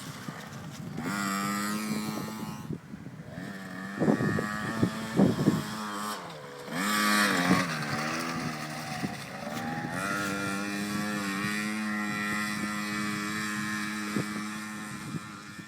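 KTM 50 mini motocross bike's small two-stroke engine running and revving, its pitch rising and falling as the throttle is opened and closed. A few sharp knocks come about four to five seconds in.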